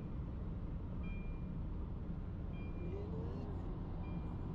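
Steady low rumble of a car driving, heard from inside the cabin, with a short high electronic beep repeating about every second and a half.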